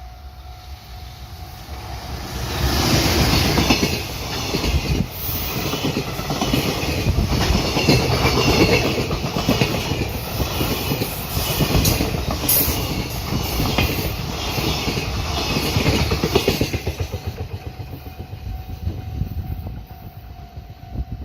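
Train passing over a level crossing, its wheels clattering over the rail joints. It swells up about two to three seconds in, stays loud for about fifteen seconds, then fades near the end. A steady ringing tone, typical of the crossing's warning signal, runs underneath.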